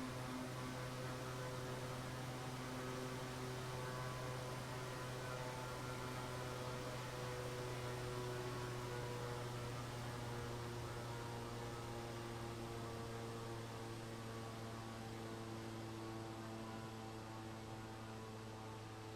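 Aircraft engines running at a steady low power: a steady hum with several tones that drift slightly in pitch.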